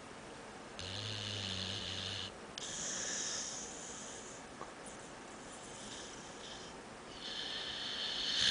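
Dog snoring in its sleep, a human-like snore. About a second in comes a low, buzzing snore, followed by a long airy breath, and another snoring breath begins near the end.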